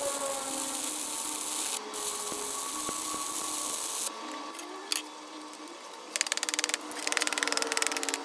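Shop power tools working metal: a steady hiss, then a quick crackling run of clicks in the last couple of seconds, with short breaks between segments.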